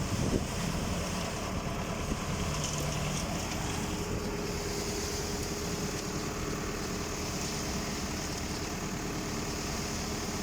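Tractor diesel engine running steadily while driving a PTO-powered transit concrete mixer, with a couple of sharp knocks right at the start and a steady hum joining in about four seconds in.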